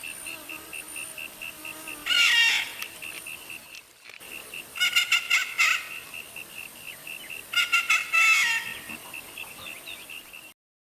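Birdsong: a high note repeated about three times a second, with three louder bursts of rapid, complex calls over it. The recording cuts off abruptly near the end.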